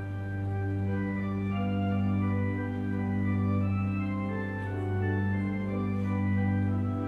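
Church organ playing, freshly rebuilt: sustained chords over a steady held bass note, with the upper voices changing notes every second or so.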